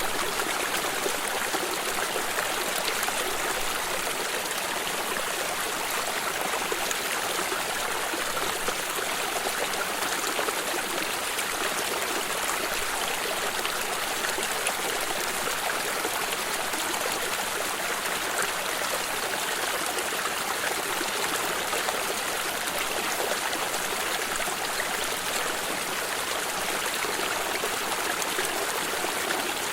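Stream water running and trickling steadily, an even splashing rush with no changes.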